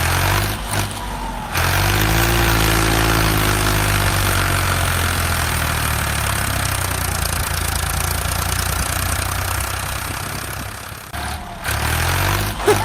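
Vehicle engine running with a steady low drone, picking up about two seconds in and easing off briefly near the end.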